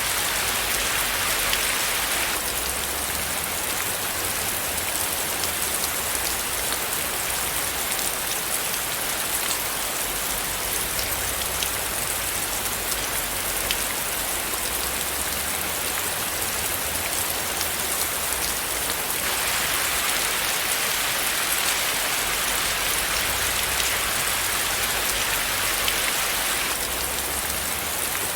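Steady rain falling, a dense hiss flecked with the ticks of single drops. Its tone shifts slightly a couple of seconds in, again about two-thirds through and near the end.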